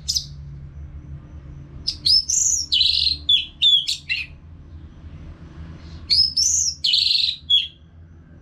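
Orange-headed thrush singing: two phrases of quick, high whistled notes, each about two seconds long, over a low steady hum.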